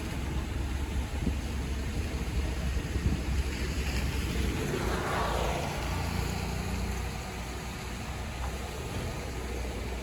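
Heavy diesel earthmoving machinery running with a steady low rumble, and a rushing swell of noise about five seconds in that fades a second or so later.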